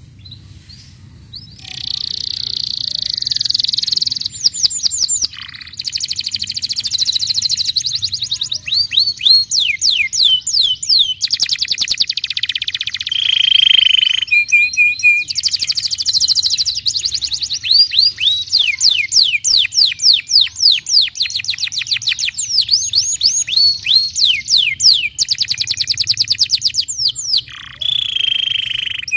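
Domestic canary singing a long, loud song of rapid trills and repeated down-sweeping notes, switching to a new roll every second or two. It starts after a short quiet moment at the beginning.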